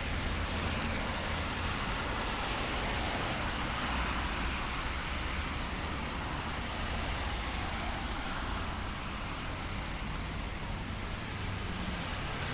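Road traffic on a wet city street in light rain: tyre hiss on wet asphalt swelling as a car goes by, over a steady wash of rain and traffic noise.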